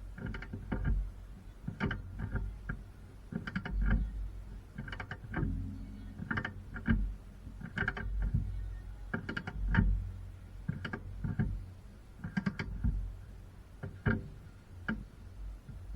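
Hand tools working on metal car-suspension parts: repeated clicks and clanks in short bursts, about one burst every second or so, each with a dull knock underneath.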